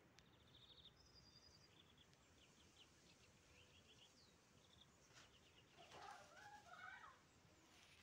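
Faint birdsong: small birds chirping and trilling in short high phrases, with a lower, louder warbling call about six seconds in.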